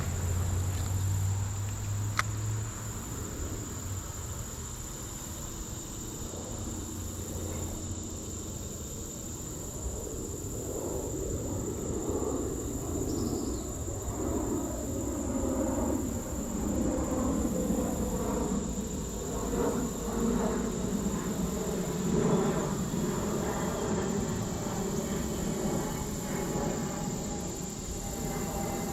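Insects droning outdoors in one steady high-pitched tone, with rustling noise that grows louder in the second half.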